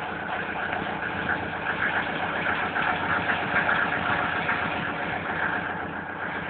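Mercedes-Benz W124 200D's four-cylinder diesel engine idling steadily with diesel clatter, still warming up after a cold start.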